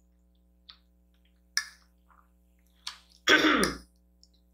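A few short mouth clicks while eating, then, a little past three seconds in, a loud throat clearing that falls in pitch, a reaction to hot, spicy kimchi.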